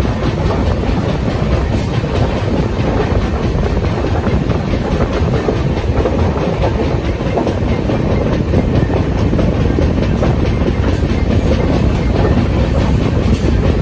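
Passenger train running on the line, heard from on board: a steady rumble with the clickety-clack of wheels over the rails.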